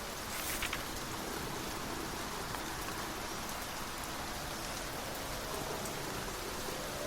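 Steady rain, an even hiss of drops on a surface, with a brief cluster of sharp taps about half a second in.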